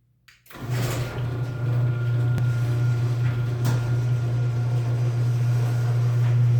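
Chamberlain PD210 garage door opener switching on with a click about half a second in, then its motor running steadily with a strong low hum as it drives the door.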